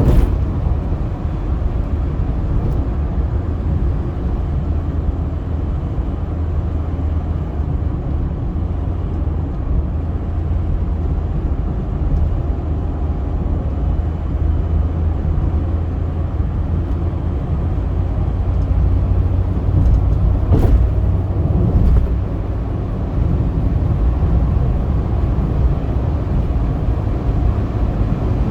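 Car driving at speed: a steady low rumble of road and engine noise, with one short sharp click about two-thirds of the way through.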